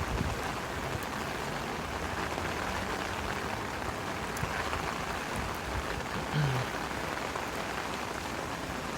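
Steady rain falling on the street, an even hiss, with a brief low hum about six and a half seconds in.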